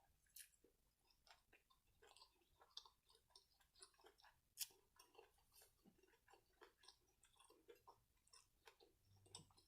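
Faint close-miked chewing of fried seafood: irregular soft crunches and wet mouth clicks, with a couple of sharper crunches about half a second and four and a half seconds in.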